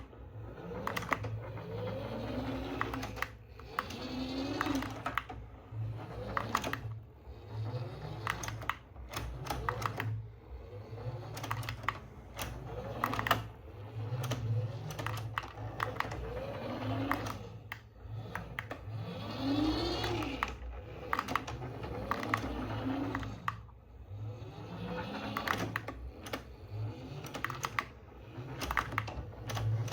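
Small electric motors and plastic gearing of a remote-control toy vehicle, whining up and down in speed again and again, with many sharp plastic clicks and rattles.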